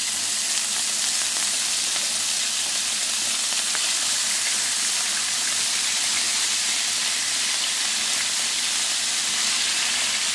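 Pieces of marinated chicken frying in hot oil in a frying pan: a steady, loud, ferocious sizzle at the start of cooking.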